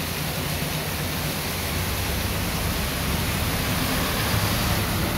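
Heavy rain pouring down onto a paved street, a steady, even hiss that grows slightly louder partway through.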